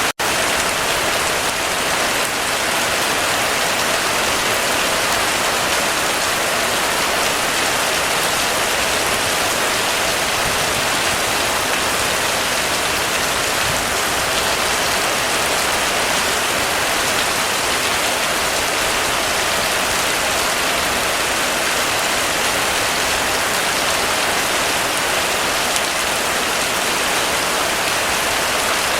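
Heavy rain falling in a steady, even hiss with no let-up, broken only by a split-second gap right at the start.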